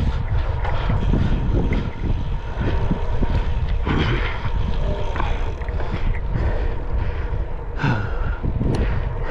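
Wind buffeting the microphone during a bicycle ride: a steady low rumble broken by frequent short rattles and knocks.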